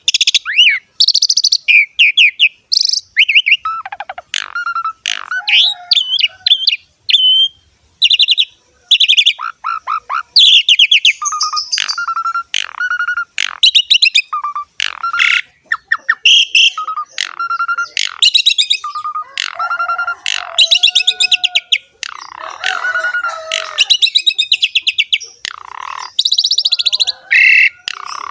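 Asian pied starling (jalak suren) singing a long, loud, varied song: rapid runs of short notes, clear whistles and harsher chattering phrases following one another with only brief pauses.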